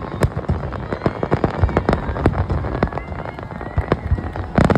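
Fireworks going off: a rapid, irregular string of sharp bangs and crackles, with a louder burst near the end.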